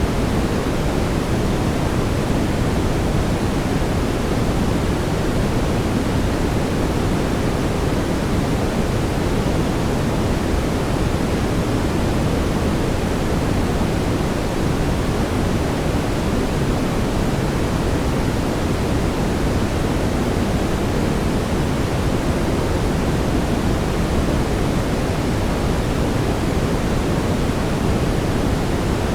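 Steady synthetic brown noise: a deep, even rushing hiss, heaviest in the lows, with no changes or events.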